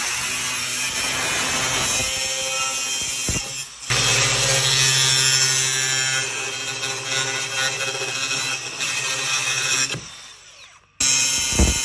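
Angle grinder fitted with a 6-inch cutting and grinding disc, running under load as it cuts and grinds. It dips briefly near 4 s, winds down to near silence around 10 s, and starts up again about a second later.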